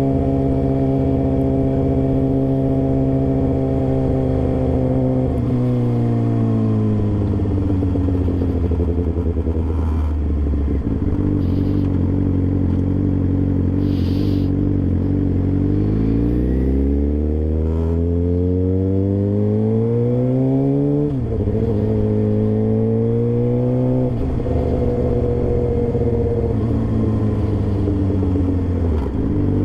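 A sport bike's engine, breathing through an SC Project slip-on exhaust with a cat delete, heard from the rider's seat. It holds a steady cruise, then drops in pitch as it slows about five seconds in. From about sixteen seconds it pulls hard, with a sudden drop near twenty-one seconds and another near twenty-four, like upshifts.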